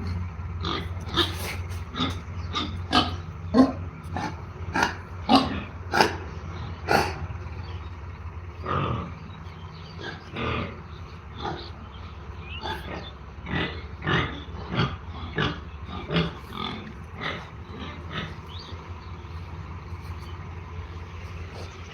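Pigs grunting in short, repeated calls, close together through the first seven seconds and more spaced out after that, over a steady low hum.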